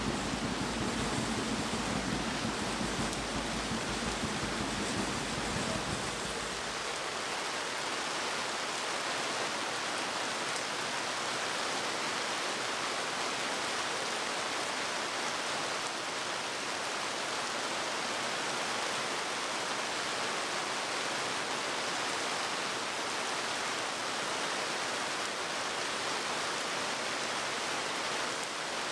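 Heavy rain falling steadily, an even hiss throughout. A low rumble sits under it and stops about six seconds in.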